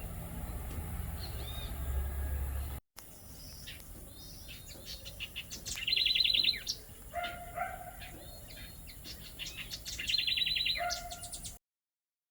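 Southern house wren singing: two bursts of rapid trilled notes a few seconds apart, mixed with lower, shorter notes. A low rumble comes first and cuts off abruptly about three seconds in.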